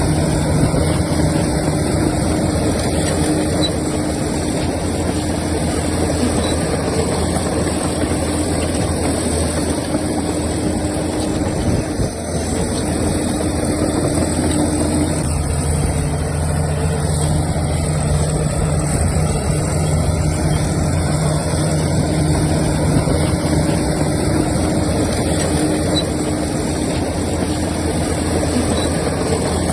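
Heavy diesel machinery engine running steadily, with a short dip in loudness about twelve seconds in and small shifts in engine note.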